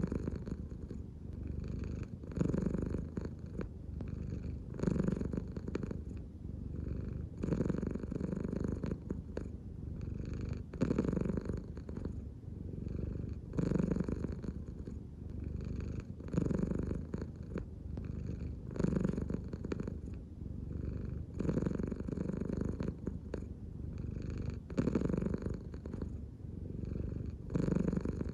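American Shorthair cat purring continuously, the purr swelling and easing with each breath about every two and a half to three seconds.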